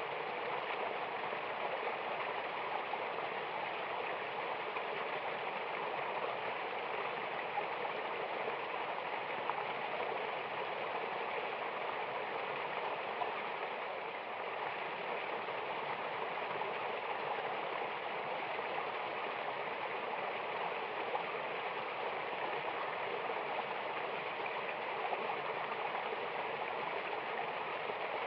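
Mountain water rushing in a steady, unbroken hiss with no change in level, as from a waterfall and fast river.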